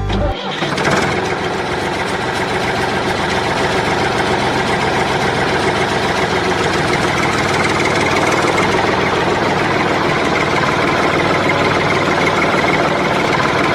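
A small motor running steadily after the music cuts off about half a second in, with a dense mechanical buzz that grows a little louder over the first few seconds and then holds even.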